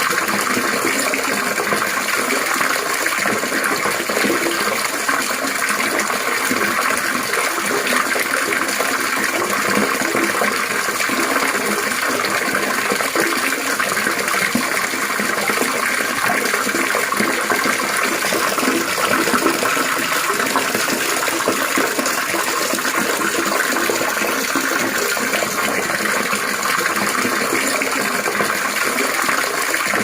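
Trickling, splashing water running steadily without change.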